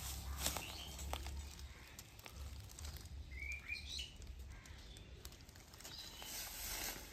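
A small bird chirping a few quick notes about halfway through, over faint scattered clicks and rustles of dry leaf litter.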